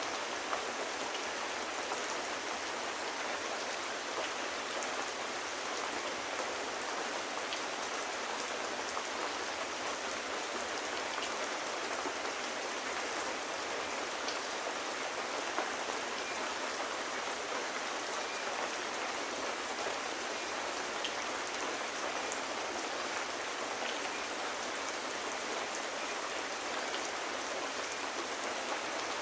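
Steady rain, an even hiss with faint scattered drops ticking through it.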